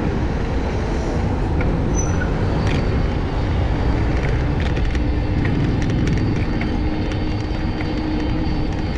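City street noise heard from a moving bicycle: a steady low rumble of traffic and wind, with a steady hum coming in about five seconds in.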